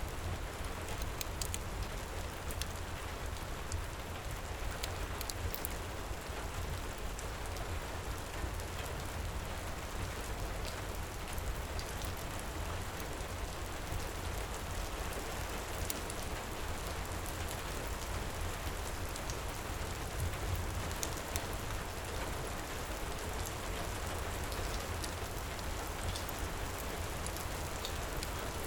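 Heavy rain pouring steadily, with a low rumble beneath and scattered sharp ticks throughout.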